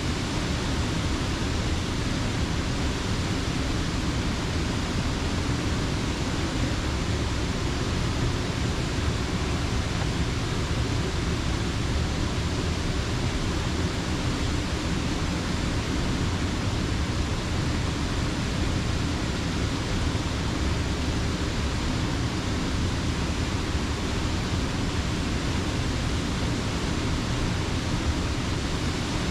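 Water spilling over a mill dam into a rocky creek: a steady, unbroken rush with a strong low rumble.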